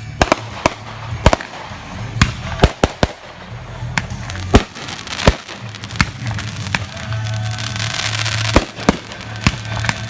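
A fireworks display: shells bursting in a string of sharp, irregular bangs, with a rising crackle of crackling-star effects from about two-thirds of the way in.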